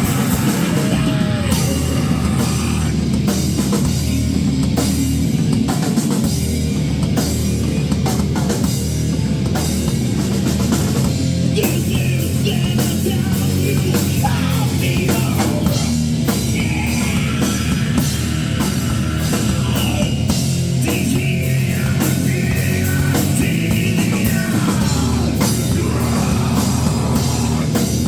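Live rock band playing loudly, with a heavy drum kit and distorted guitars.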